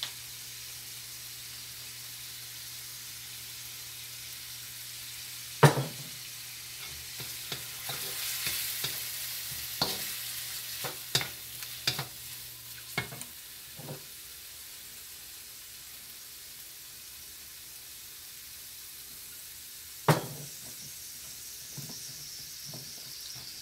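Diced chicken sizzling steadily in a hot wok, with a wooden spatula stirring and scraping it in a run of short clicks between about six and fourteen seconds in. The sizzle swells for a moment around eight seconds in, and two sharp knocks stand out, one about six seconds in and one near twenty seconds.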